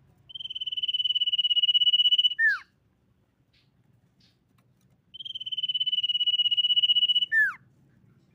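Common iora singing two long, high, trilled whistles, each about two seconds long and swelling in loudness. Each ends with a quick falling note, and there is a pause of about three seconds between the two phrases.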